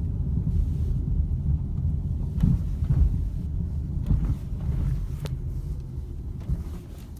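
Low, steady rumble of a car driving, heard from inside, fading near the end.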